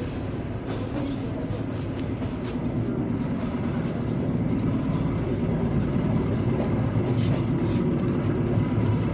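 Regional passenger train running along the track, heard from inside the carriage: a steady low rumble of the car in motion.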